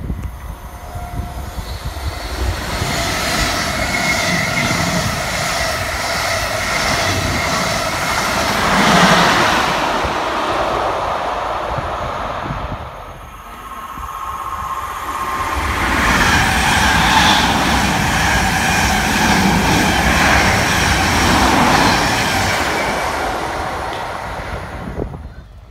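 Electric passenger trains running through a station: wheels on the rails and a steady electric whine. The sound builds, drops away about thirteen seconds in, builds again as a second train passes, and fades near the end.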